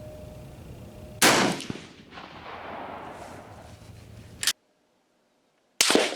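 Swiss K31 straight-pull bolt-action rifle firing, one shot about a second in and another near the end, each a sharp crack with a short echo. A shorter, sharper snap comes about four and a half seconds in, just before the sound cuts out completely for about a second.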